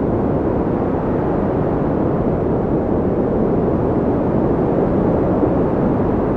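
Wind blowing steadily as a dense, low rushing noise with no gusts or breaks.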